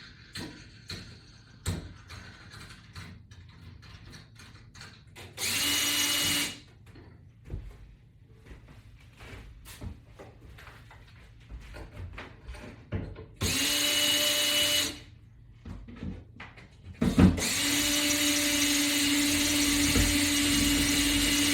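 Power drill running in three goes: two short runs of about a second, then a longer steady run from about 17 seconds in, with light clicks and knocks of handling between. It is backing screws out to take a wall mount off a board.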